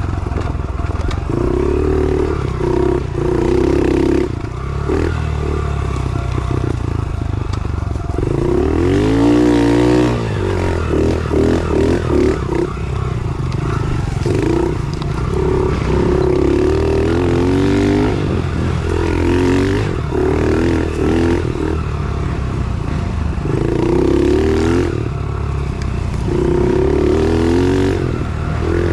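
110 pit bike's small single-cylinder four-stroke engine being ridden, revving up and falling back in repeated bursts of throttle every few seconds.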